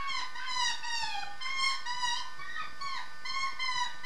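Australian magpie warbling: a continuous run of whistled notes that glide up and down, several lines overlapping at once.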